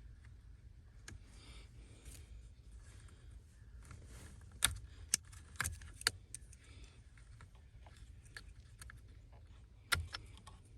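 Several sharp clicks and clinks, tools or small metal parts being handled, with a group of four near the middle and one more near the end, over a low steady hum.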